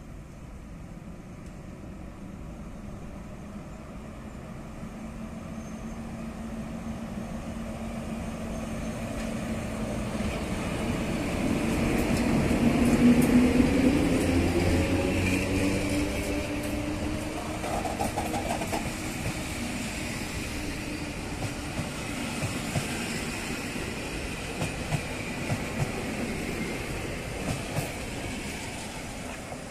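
An EU07 electric locomotive hauling a train of passenger coaches past. A pitched hum swells to its loudest as the locomotive goes by, then the coaches roll past with a run of sharp wheel clicks near the end.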